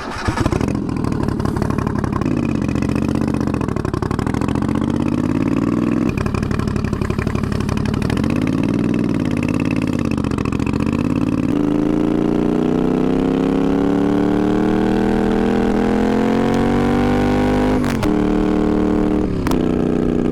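Twin-turbocharged Moto Guzzi V50 III's V-twin engine running loud. Its revs rise and fall twice, then climb steadily for about six seconds, drop sharply near the end and pick up again.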